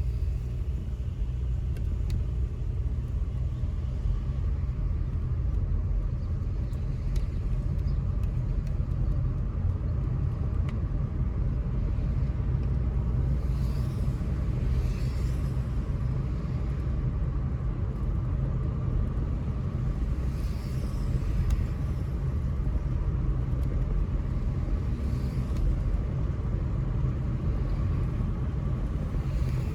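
Car driving on town streets: a steady low rumble of engine and road noise, with a few faint hissing swells partway through.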